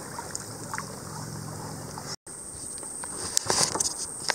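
Kayak on a river: light water and hull sounds under a steady high-pitched insect drone, likely cicadas. The sound breaks off for an instant about two seconds in, then picks up again with a few sharper splashes and knocks.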